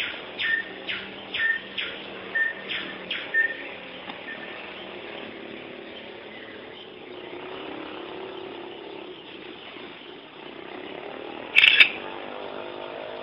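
A bird chirping in short calls about twice a second for the first few seconds, then a steady low background. A single sharp, loud knock comes near the end.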